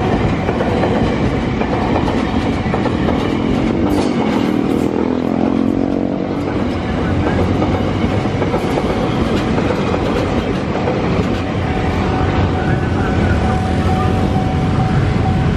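KRL electric commuter train passing a level crossing at speed: a loud steady rumble of wheels on rail with some clacking, plus a faint steady tone in the second half.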